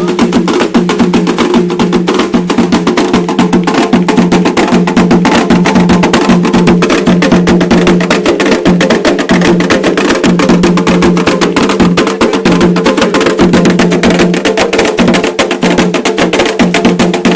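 Fast, dense percussion music, continuous drumming with sharp wood-block-like clicks, in an Afro-Brazilian song for the orixá Xangô.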